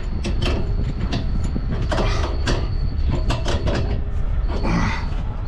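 A steady low mechanical rumble with frequent, irregular sharp metallic clicks and clanks from hand work on air-line fittings.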